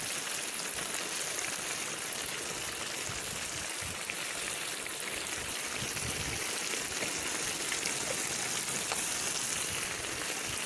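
Beef and onions sizzling steadily in hot oil in a cast-iron kazan: the meat-and-onion base of plov being browned.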